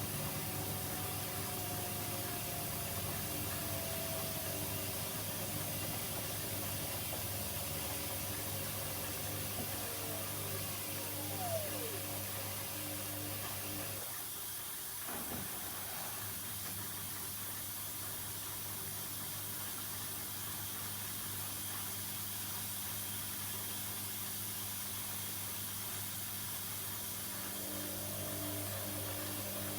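Two washing machines running mid-wash: a steady motor hum with hiss, and a falling whine about ten seconds in as a drum motor slows. A few seconds later part of the hum stops suddenly and the sound is quieter, then some of the tones return near the end.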